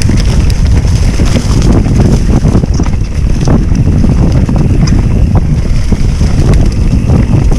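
Heavy wind buffeting the microphone of a bicycle rider moving at about 23 km/h, a loud rumbling rush with scattered small knocks and rattles throughout.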